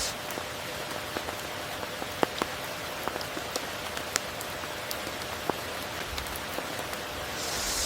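Steady rain falling, with many sharp individual drops ticking close by over the even hiss of the downpour. A brief hissing swell rises near the end.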